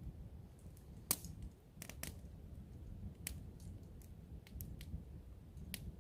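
A handful of short sharp clicks or snaps, about five scattered irregularly, over a low steady rumble.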